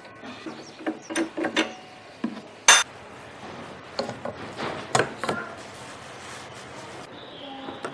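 Irregular knocks, clicks and clatter of hard parts and tools being handled during a workshop build, with one sharp, loud knock about three seconds in, over a steady hiss.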